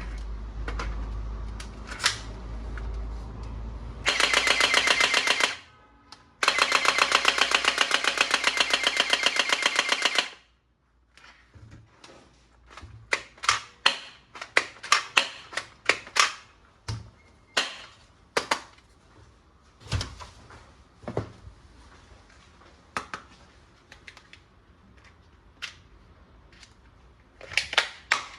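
Toy gun's rapid-fire mechanism rattling in two bursts of fast repeated pulses, a short one about four seconds in and a longer one of about four seconds. It is followed by scattered sharp clicks and knocks of plastic toy parts being handled.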